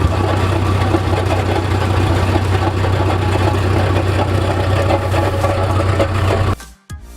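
An engine running steadily at constant speed with a strong low hum, cutting off abruptly about six and a half seconds in.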